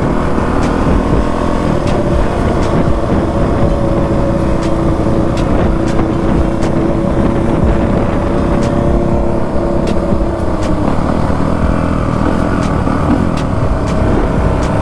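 2020 Honda CRF450 dirt bike's single-cylinder four-stroke engine running at a steady speed while riding, with wind rumble on the microphone.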